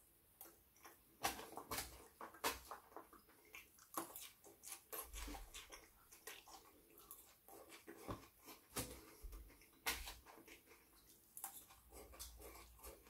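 Quiet, close-up chewing and mouth sounds of a man eating doner kebab meat and chips, with irregular wet smacks and clicks.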